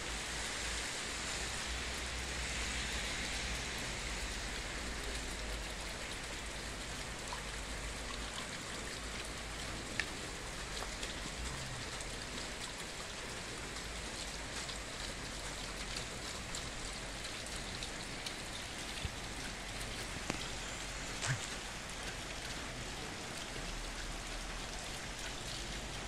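Steady rain falling on a paved street and pavement, with a few isolated sharp taps: one about ten seconds in and a couple more near the twenty-second mark.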